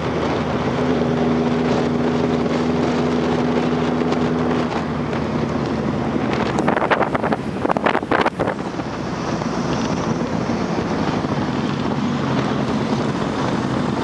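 Motorcycle engine running steadily under wind rushing over the microphone while riding. The steady engine tone drops out about five seconds in, leaving mostly wind, with a louder rough burst of noise around seven to eight seconds in.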